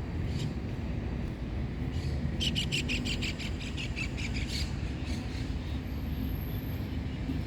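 A bird calling in a fast run of sharp, high chirps, about ten a second, fading out over a couple of seconds, over a steady low background rumble.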